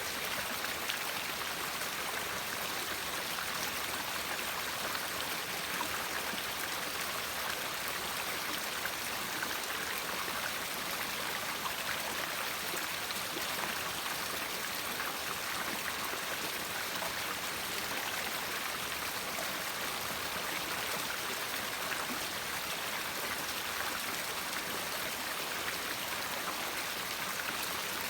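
A river flowing steadily: an even rush of running water with fine splashing and trickling.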